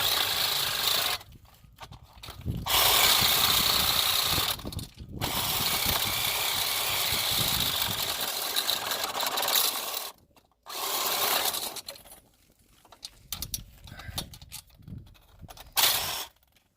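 Reciprocating saw (Sawzall) cutting metal in four runs with short pauses between them, stopping about twelve seconds in. A few faint knocks follow.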